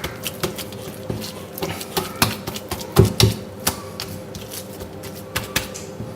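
Irregular clicks and taps from hands working rock salt and black pepper into a block of raw beef, with a few louder knocks about two and three seconds in.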